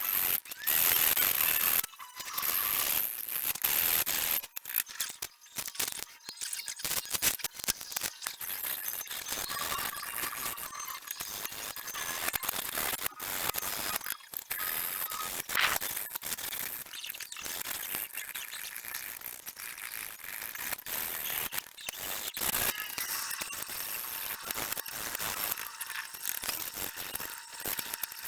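Sandpaper rubbed by hand along a steel knife blade in quick, uneven back-and-forth strokes, a steady scratchy rasp.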